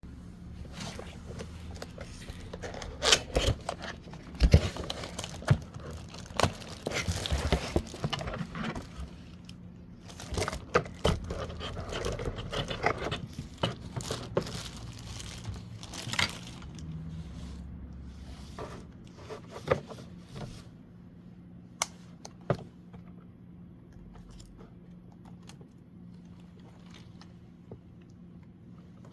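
Plastic packaging rustling and crinkling, with sharp clicks and knocks as a wired USB keyboard and its key skin are handled. The rustling is dense for the first half, then gives way to a few scattered clicks, and it goes quiet for the last few seconds.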